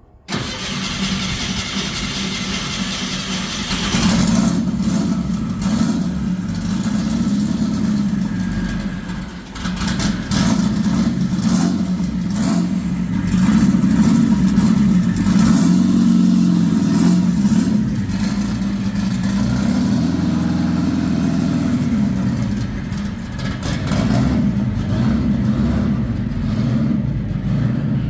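Car engine running loudly, the revs rising and falling several times.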